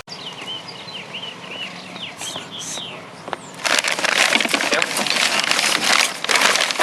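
Birds chirping: short, repeated high chirps. About halfway through, a loud rattling, clattering noise with many small knocks takes over.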